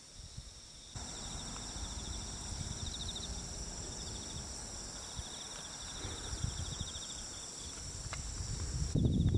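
Insects chirping in a steady high-pitched chorus, with a pulsing trill among them, over a low background rumble. The low rumble grows much louder near the end.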